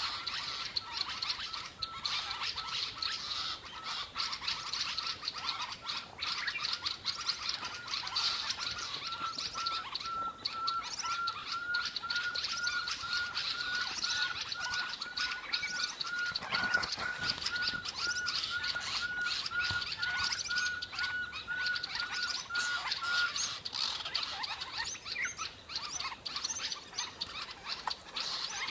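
A pearl-spotted owlet's call: a long, even series of whistled notes, about three a second, climbing slightly in pitch before it stops near the end. It is set against many small birds chirping busily.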